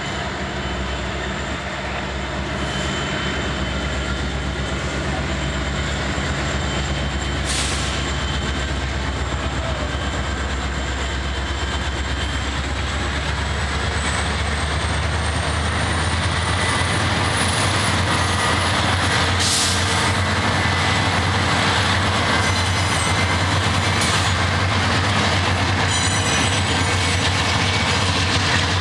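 Norfolk Southern freight train rolling past: diesel locomotives, including GE Dash 9 (C40-9W) units, rumble by with a deep engine drone, and about halfway through they give way to covered hopper cars rolling past with steady wheel clatter. A thin high wheel squeal runs over it all.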